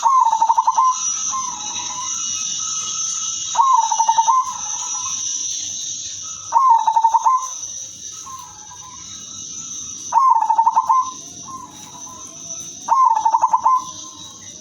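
Female zebra dove (perkutut) cooing: five loud phrases of rapid staccato coo notes, each about a second long and spaced about three seconds apart, with softer coos in between.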